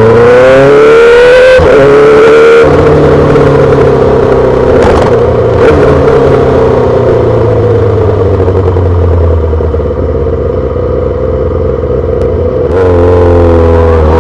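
2008 Yamaha R6's inline-four engine through a full SC-Project exhaust. It revs up in gear with rising pitch, breaks off briefly as if shifting, then holds a fairly steady note for several seconds before the pitch climbs again near the end.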